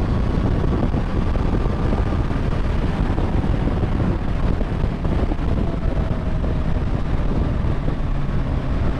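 Motorcycle riding at speed on the open road, heavy wind rumble on the camera microphone covering the engine, whose faint note drifts slowly lower.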